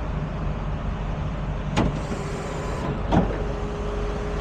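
Heavy truck engine idling steadily, with two sharp clicks about two and three seconds in and a faint steady whine joining it near the middle.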